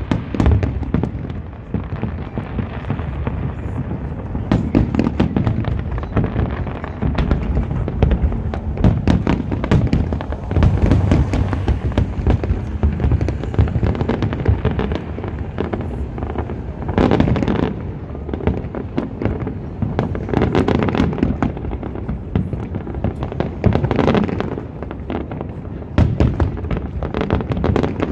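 Aerial fireworks shells bursting in rapid succession: a near-continuous run of booms and crackles, several a second, with the heaviest volleys a little past halfway and again near the end.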